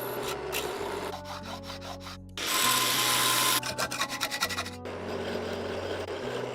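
Abrasive rasping of a tool working a surface, with a louder stretch of rough hiss about two and a half seconds in followed by a run of quick strokes, over background music with held bass notes.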